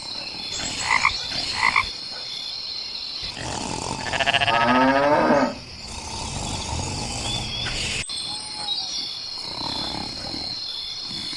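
Rural animal ambience: a steady high insect drone with two short bird-like chirps early, then one loud, pulsing animal call lasting about two seconds, about three seconds in.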